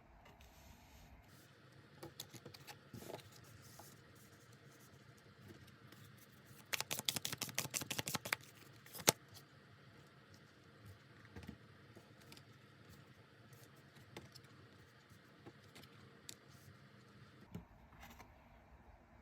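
Tarot cards being handled and shuffled: scattered soft taps and clicks, with a quick run of crisp clicks lasting about a second and a half some seven seconds in, and a single sharp click just after.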